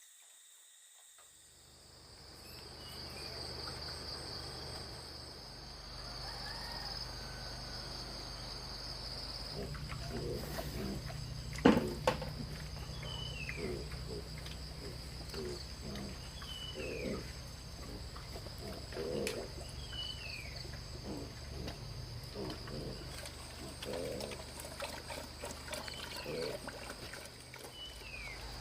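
Forest ambience: a steady high insect drone, with a bird's short descending whistle repeating every second and a half to two seconds. Irregular soft thuds run throughout, and a single sharp knock comes about twelve seconds in.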